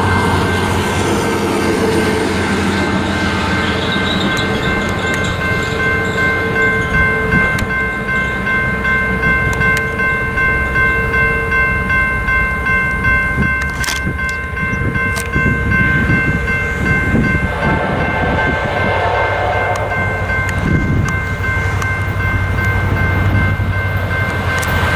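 Approaching diesel train, CSX F40 locomotives running with rumble and rail noise building toward the end, over a few steady high tones that run throughout.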